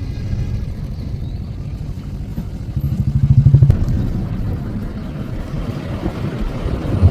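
Motor vehicle engine and road rumble, with a louder pulsing engine sound swelling for about a second, around three seconds in.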